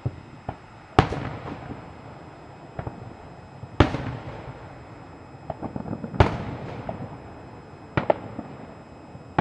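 Aerial firework shells bursting: three loud booms about a second, four seconds and six seconds in, each trailing off in a fading echo, with smaller pops between them and a quick double bang near the end.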